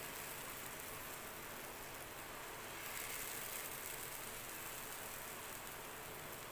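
Besan cheela batter sizzling in oil on a hot tawa as it is spread with a ladle: a steady, even hiss.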